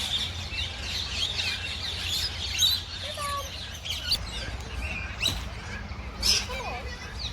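A flock of aviary birds chirping and calling together in many quick, overlapping high chirps and short sweeping whistles, with a steady low rumble underneath.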